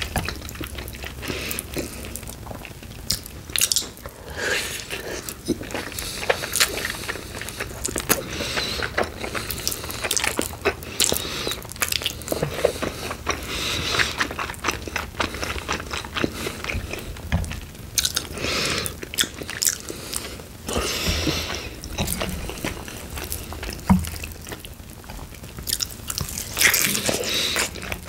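Close-miked biting and chewing of sauced chicken wings, with crunching of the skin and irregular clicks and wet smacks.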